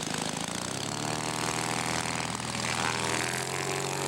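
Engine of a quarter-scale radio-controlled model airplane running at a steady speed, propeller turning.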